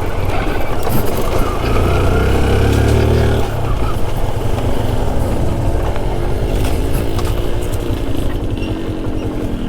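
Yamaha RX two-stroke single-cylinder motorcycle engine running under way, its revs rising over the first few seconds and easing off about three and a half seconds in.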